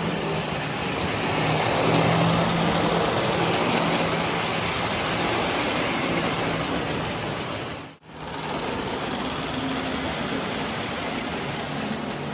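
Postwar Lionel O-gauge train running on three-rail track: a steady rumble of wheels and motor with a low hum. The sound drops out for an instant about eight seconds in.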